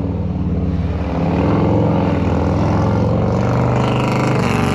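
Motorcycle engine running loud and steady at a low pitch.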